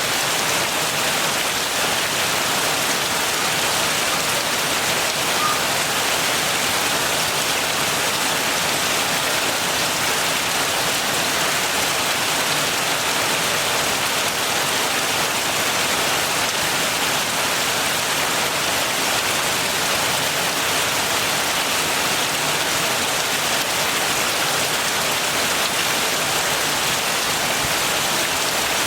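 Steady heavy rain falling, a constant even hiss of many drops with no change in strength.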